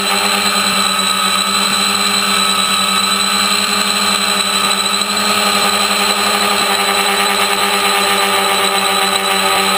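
Electric motors and propellers of a DIY T-copter (three-rotor multicopter) running steadily in flight, a constant multi-tone buzzing hum that holds nearly the same pitch throughout.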